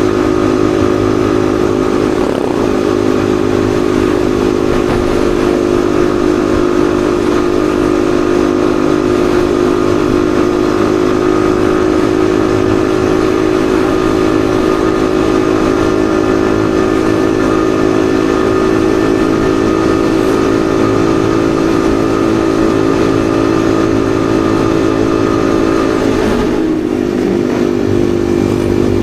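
Yamaha XSR155's single-cylinder four-stroke engine running at a steady speed while riding, its pitch briefly dipping and recovering near the end.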